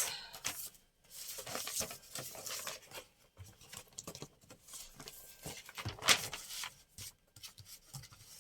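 Paper and card being handled and rustled on a table, with scattered short rustles and light taps and a louder rustle about six seconds in.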